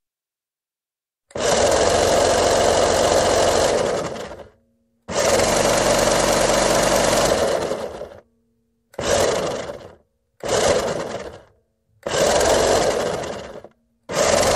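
Remote-controlled toy fire truck held upside down, its electric motor whining as the wheels spin freely in the air. It runs in six bursts: two long runs of about three seconds, then shorter ones of one to one and a half seconds. Each burst starts abruptly and winds down, and the last starts near the end.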